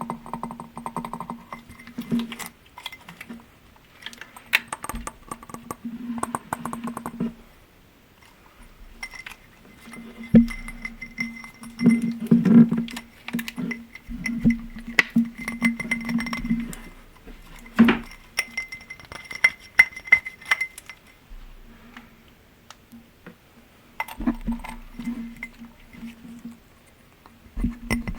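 Glass objects being tapped in runs of quick, light taps, each glass giving a ringing tone, with short pauses between runs.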